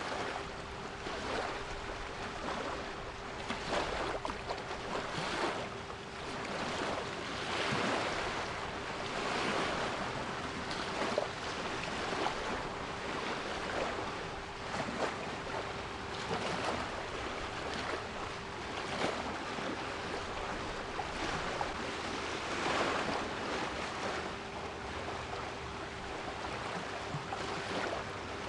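Sea waves breaking and washing in irregular surges, with a steady 396 Hz pure tone held underneath.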